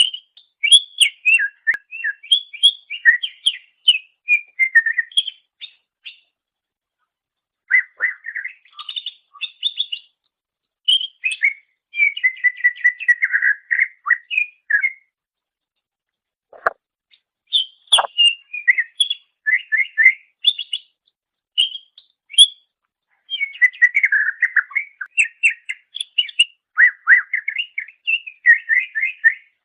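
Greater green leafbird (cucak ijo) singing: rapid runs of chirps and whistled notes in phrases a few seconds long, broken by short pauses, with a couple of quick downward-sweeping notes about halfway through.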